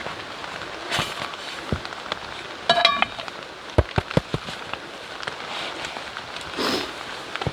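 Wood fire crackling in a wood stove, with a quick cluster of sharp pops about four seconds in, over a steady hiss.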